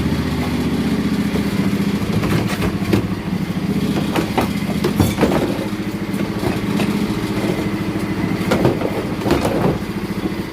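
Riding lawn mower's small engine running steadily, with a few short knocks and clicks over it.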